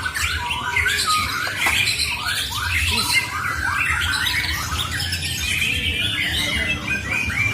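Borneo white-rumped shama (murai batu) singing a dense, unbroken run of quick warbled, sweeping phrases, with no pauses.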